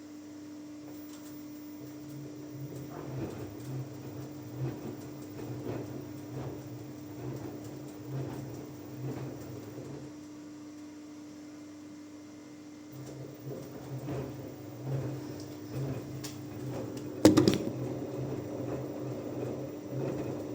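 Washing machine in its wash cycle: the drum motor turns the drum for several seconds, stops for about three seconds and turns again, with the wet laundry swishing about once a second and a steady hum underneath. A single sharp knock comes near the end.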